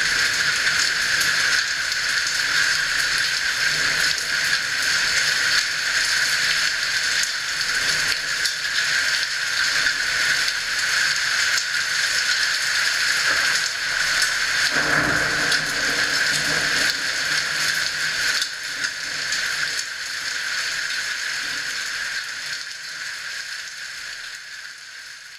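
Steady rain falling, with a low rumble of thunder about fifteen seconds in that lasts a couple of seconds. The rain fades out near the end.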